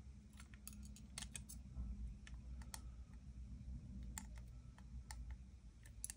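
Faint, irregular small clicks and crinkles of thin foil being pressed and folded between fingers, over a low steady hum.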